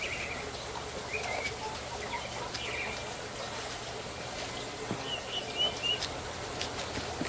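Small birds chirping in short scattered bursts, with a few brief knocks or clicks among them.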